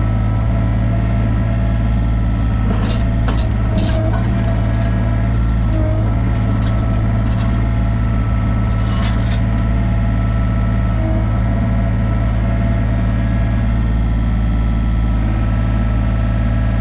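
Diesel engine of heavy equipment idling steadily, with a few brief clatters about three, four and nine seconds in.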